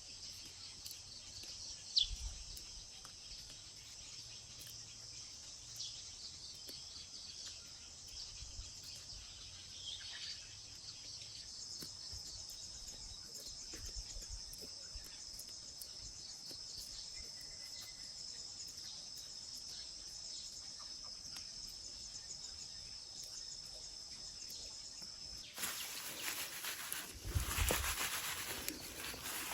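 Steady high-pitched chorus of insects, like crickets, with a short bird chirp about two seconds in. Near the end, louder rustling and a few dull thuds like footsteps in the garden.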